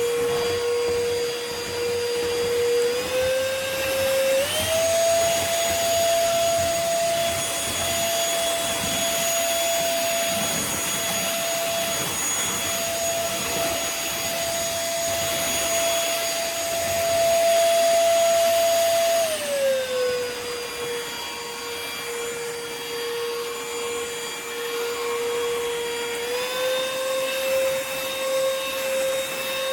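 Trucozie cordless stick vacuum running with a steady motor whine over the rush of air. The whine steps up in pitch twice a few seconds in, holds, then glides back down a little past the middle and steps up again near the end.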